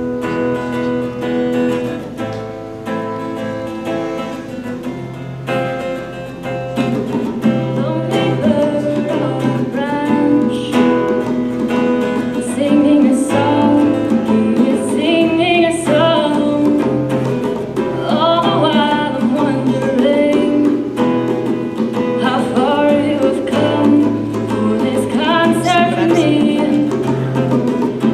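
Acoustic guitar playing a song introduction, joined about eight seconds in by a singing voice over the guitar accompaniment.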